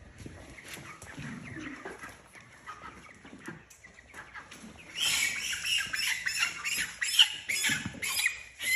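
Cornish cross meat chickens being caught by hand: quiet scuffling, then about five seconds in a loud burst of wings flapping and birds squawking that carries on.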